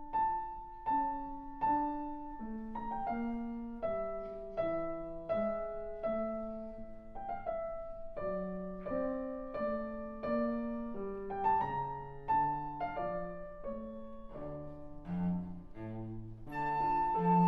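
Piano playing a slow classical melody in even notes over lower accompanying notes.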